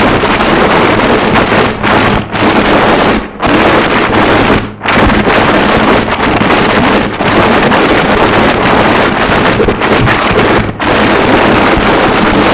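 Harsh noise wall: a loud, dense wall of distorted static filling the whole range, with a steady low hum underneath and several brief drop-outs at irregular moments.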